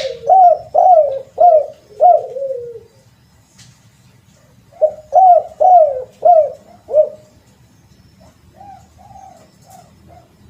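Spotted dove cooing: a bout of about five loud coos, a pause of about two seconds, then another bout of about five, followed by fainter coos near the end.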